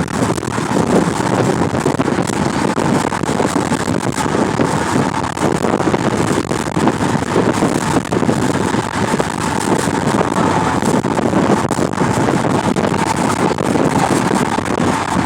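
Heavy wind buffeting the microphone inside a car, a loud continuous rushing rumble with constant flutter.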